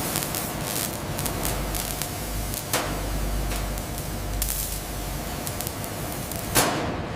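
Steady hissing industrial noise over a low rumble, with a few short, sharper hisses or clanks, about three seconds in, at four and a half seconds, and near the end.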